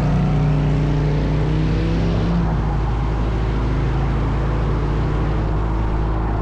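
Motorcycle engine running under way, its pitch climbing for about the first two and a half seconds, then dropping and holding steady, over a steady low rumble.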